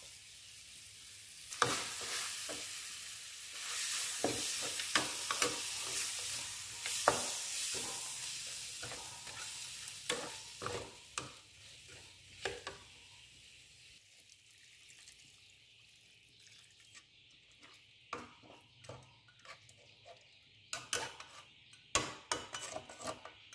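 Chicken pieces in chili sauce frying and sizzling in a pan while a metal spatula stirs them, with frequent scrapes and clicks of the spatula against the pan. About halfway through, the sizzle dies away, leaving scattered scrapes and knocks of the spatula.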